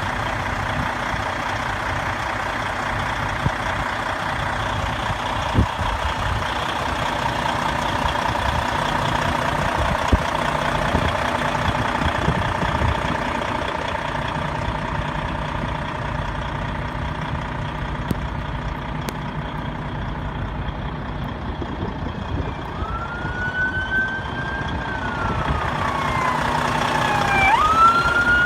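Steady vehicle engine and road noise. Near the end a siren wails, its pitch rising, falling slowly, then jumping up again.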